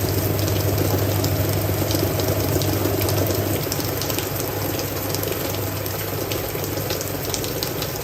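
Hoover 1400 top-loading washing machine running, with water rushing and a low steady motor hum that drops in level about halfway through.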